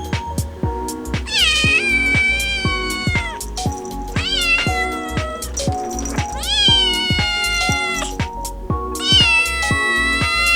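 American Shorthair cat meowing four times in long drawn-out calls, each rising at the start and then sliding slowly down in pitch, over background music with a steady beat.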